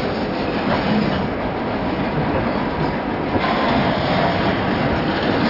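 Freight train of tank cars rolling past close by: a steady rumble of steel wheels on the rails, with a few clicks as the wheels pass over the track.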